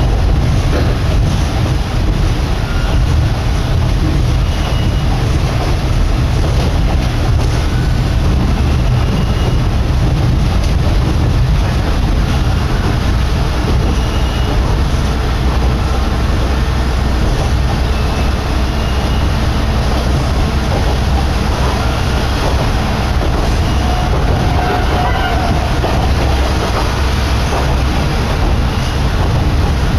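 Kominato Railway diesel railcar running along the line at speed: a steady, loud rumble of wheels and engine, with wind rushing in through the open window and buffeting the microphone.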